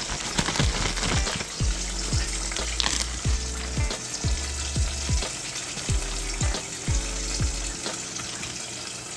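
Breaded crappie fillets sizzling as they fry in a pot of oil, under background music with deep bass kicks about twice a second.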